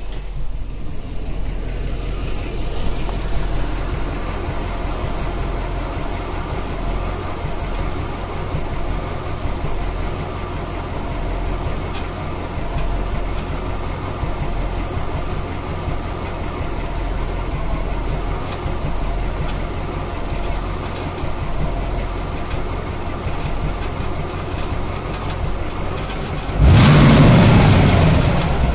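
1993 Chevrolet Corvette C4's V8 idling at low rpm with a ticking noise, and a rattle that comes in about twenty seconds in; the owner does not know the cause of either. Near the end the engine is revved once, briefly getting louder, and the revs fall back toward idle.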